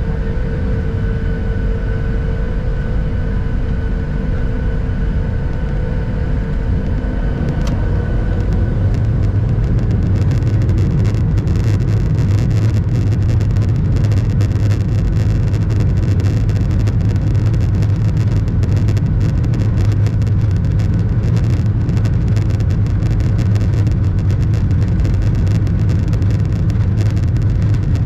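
Boeing 737-800's CFM56 turbofan engines at takeoff power during the takeoff roll, heard from inside the cabin. A steady engine whine gives way about eight seconds in to a louder, deeper roar and rumble that holds on as the jet accelerates down the runway.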